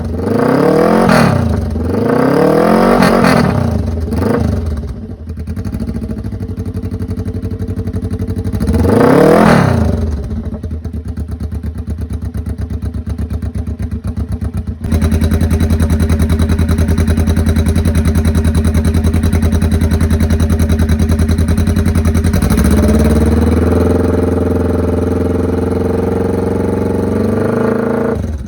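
Suzuki GS400's parallel-twin engine through straight pipes, very loud: a run of quick throttle blips, one big rev about nine seconds in, then a lumpy, pulsing idle that suddenly gets louder about halfway through.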